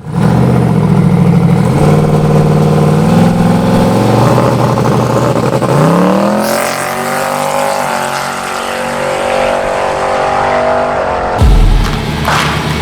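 Car engine running at high revs, its pitch rising about six seconds in and then holding. A deep thump comes near the end.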